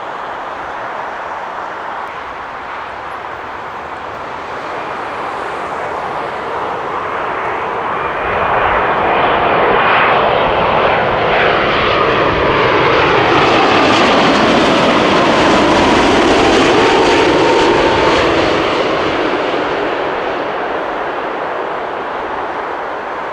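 Jet airliner passing by on approach to land, its engines' rush and whine swelling to a peak and then fading. As it passes, the engine tones slide down in pitch.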